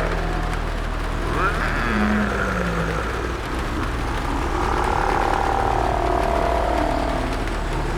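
Sound-designed zombie ambience: drawn-out, wavering moans and groans, one long one from about the middle on, over a steady noisy background with a low hum.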